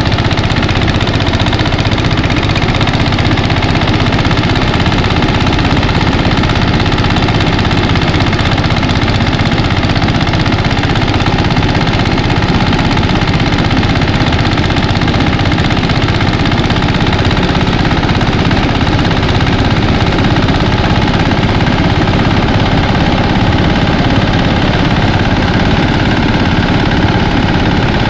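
Engine-driven mini rice thresher running at a steady speed, a loud, even mechanical drone with no change in pace.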